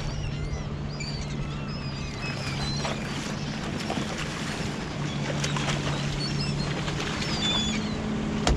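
A boat engine running steadily at low idle, with many short chirping seabird calls over it. A single sharp knock comes near the end.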